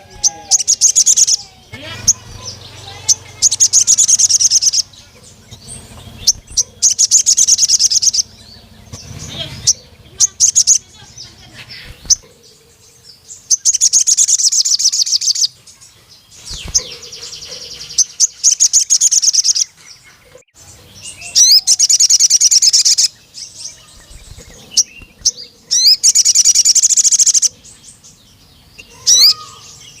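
Crimson sunbird singing in loud bouts of rapid, high-pitched chirping notes. Each bout lasts a second or two, with short pauses between bouts.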